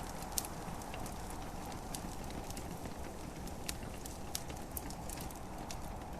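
Wood fire crackling in a fireplace, with scattered sharp pops, the loudest about half a second in, over a steady hiss of gentle rain.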